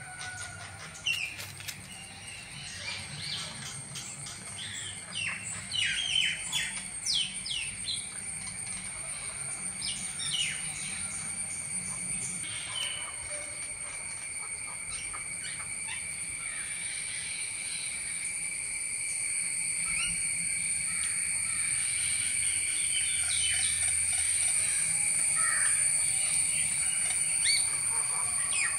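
Outdoor ambience of birds chirping on and off, the calls thickest in the first half, over a steady high-pitched insect drone.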